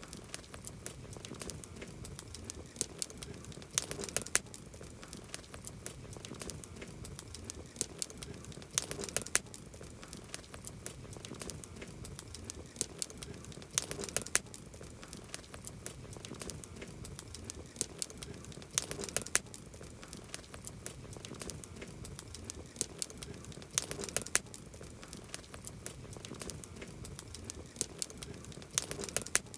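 Campfire wood crackling with frequent small pops, and a cluster of louder, sharper pops about every five seconds.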